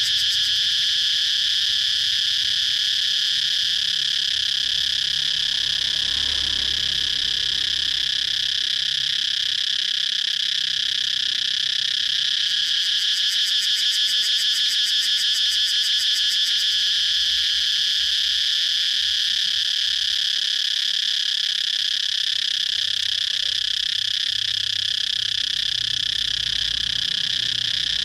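Cicadas singing: a steady high buzz with a fast, even pulsing that does not let up.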